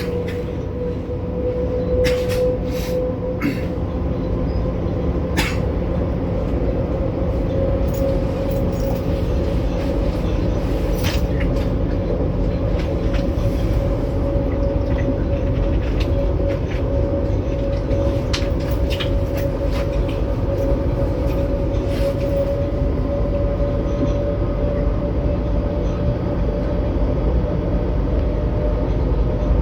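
Electric passenger train running, heard from inside the carriage: a steady rumble with a faint motor whine that slowly rises in pitch, and scattered clicks.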